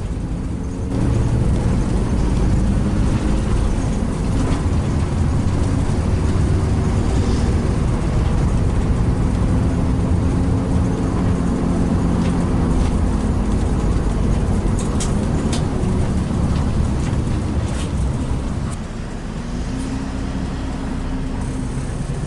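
Mercedes-Benz intercity bus running at speed: a steady engine and road rumble whose engine note rises and falls, getting louder about a second in and easing slightly near the end, with a few brief clicks in between.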